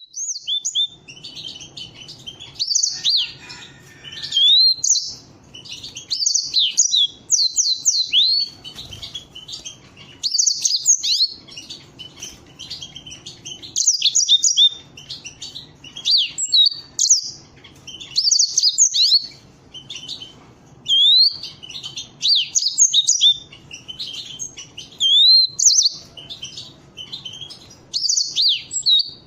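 Domestic canaries singing: quick high-pitched trills and sweeping whistles in short phrases, one after another, with brief pauses between them.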